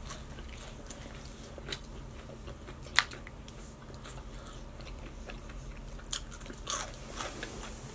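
Close-up chewing and biting on fried cheesy onion rings, with a few scattered crunchy clicks, the sharpest about three seconds in.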